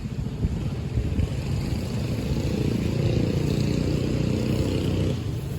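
A small motorbike engine running at a steady pitch. Its note is strongest through the middle and drops away near the end.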